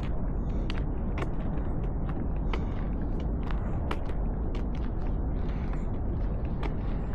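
Steady low rumble aboard the Staten Island Ferry, with many short sharp clicks scattered irregularly through it.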